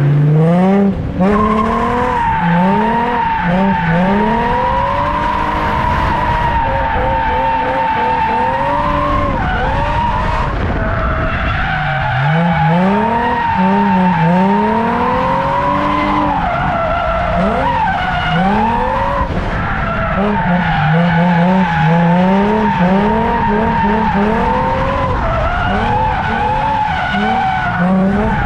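A drift car on track: its engine revs climb and drop again and again as the throttle is worked, over a long continuous tyre squeal from a sustained slide.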